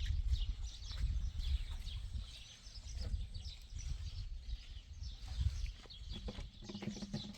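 Small birds chirping repeatedly over a low, uneven rumble.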